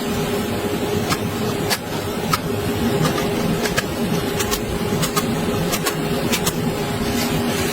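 A small electric motor running steadily with a constant hum, with scattered sharp clicks over it.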